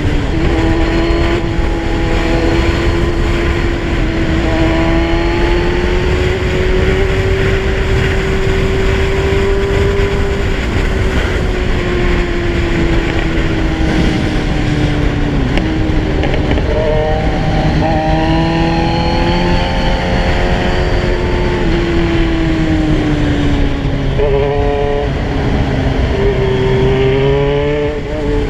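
Kawasaki Z1000 inline-four motorcycle engine running while riding, its pitch rising and falling with the throttle. It revs up a couple of times in the second half, with gear changes between.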